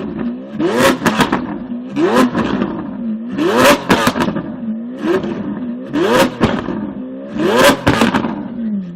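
An engine revving over and over in an even rhythm, its pitch climbing and then falling back about every second and a half, with sharp clicks near each peak.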